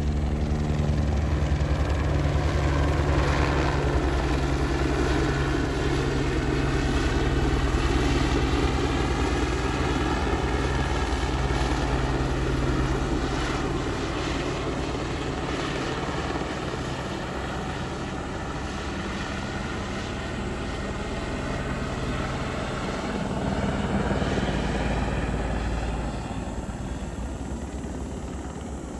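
Crop-spraying helicopter flying, its rotor beat and engine running steadily; the sound rises and falls as it passes, swelling once more late on before fading.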